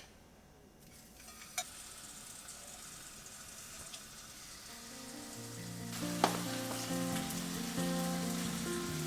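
Food frying in a pan, a steady sizzle that grows louder, with a couple of sharp clicks. Soft background music with held notes comes in about halfway through.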